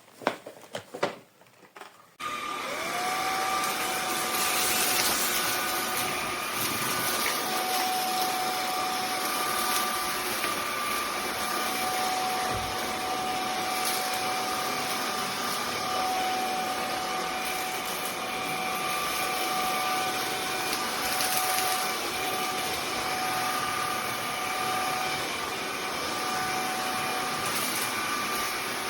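Vexilar V9PRO cordless stick vacuum: a few clicks, then about two seconds in the motor switches on and spins up with a short rising whine. It then runs steadily with a whine over a rush of air.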